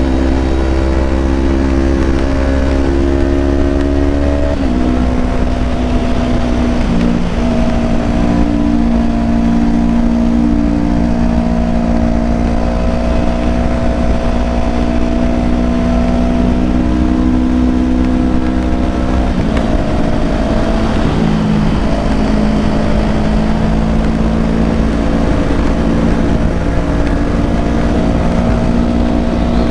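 Kawasaki Ninja 250's parallel-twin engine and exhaust running under way at a fairly steady speed. The engine note shifts pitch in small steps a few times, about four and a half seconds in and again about twenty seconds in.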